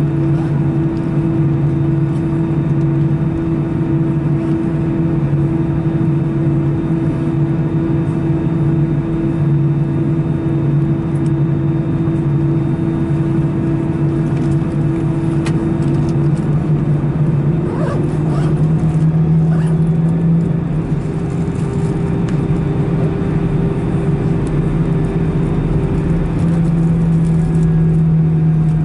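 Airbus A319 cabin noise while taxiing after landing: the CFM56 jet engines running at taxi power, a steady hum with a low drone. About seventeen seconds in, the tones shift slightly higher and the drone grows louder, as thrust is changed.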